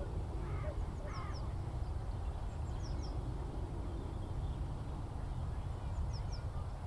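Open-country birdsong ambience over a steady low rumble. A bird gives two short harsh calls about half a second and a second in, and small birds add faint, scattered high chirps.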